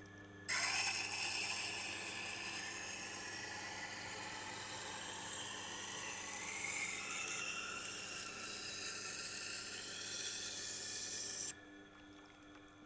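Hard-steel nakiri blade being ground on a Tormek T8's wet SG-250 grindstone, dressed coarse with an 80-grit diamond plate: a steady scraping hiss that starts abruptly about half a second in and stops suddenly near the end as the blade comes off the wheel. A low steady hum runs underneath.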